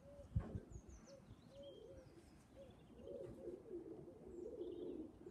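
Domestic pigeons cooing faintly, a run of low repeated coos that grows a little louder in the second half. A few faint high chirps and a brief knock are heard near the start.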